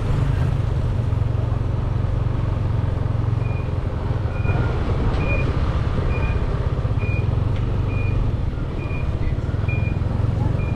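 Motorbike engine running with a steady low hum while riding. From about three seconds in, a short high electronic beep repeats evenly, a bit more than once a second.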